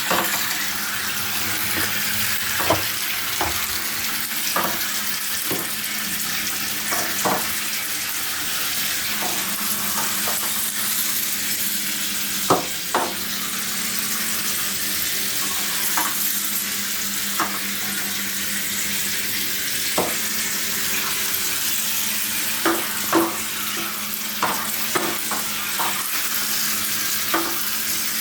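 Small battery-powered Zuru Micro Boats toy boats running in water: a steady hiss of churned water with a faint low motor hum, and scattered sharp clicks and knocks.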